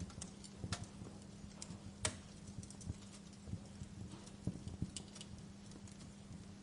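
Wood fire burning in a fireplace, crackling with irregular sharp pops, the loudest about two seconds in, over a faint steady low hum.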